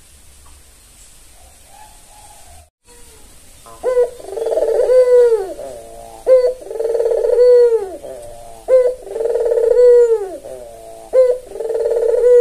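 Puter dove (ringneck or Barbary dove) cooing: after a few quiet seconds it repeats its call four times, each a short sharp note followed by a long, low rolling coo that drops at the end.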